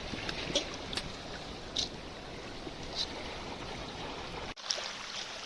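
Shallow water trickling and gurgling, with a few small splashes. The low rumble cuts out abruptly about four and a half seconds in.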